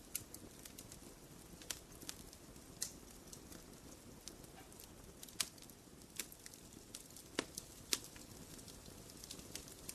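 A fire crackling in a fireplace: irregular sharp pops and snaps over a low, steady rustle of flames, with a pair of louder snaps about three-quarters of the way through.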